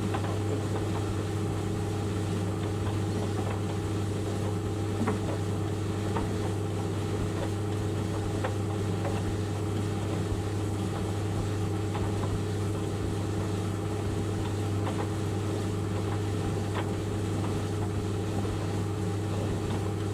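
White Knight 38A compact tumble dryer running: a steady motor and drum hum with faint, irregular light ticks.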